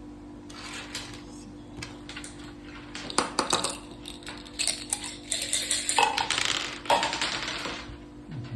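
Quick hard clicks and clatter of mak saka dice and playing pieces on the board, sparse at first and busiest in the second half.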